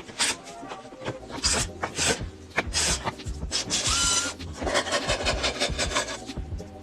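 A hand tool scraping and cutting across wood in repeated strokes, slow at first, then a longer grinding stretch and a fast run of short strokes.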